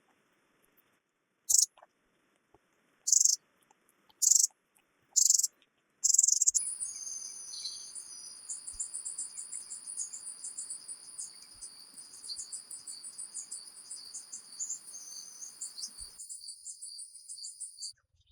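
Insect calling: five short, high chirps about a second apart, then a continuous high, pulsing trill that stops suddenly near the end.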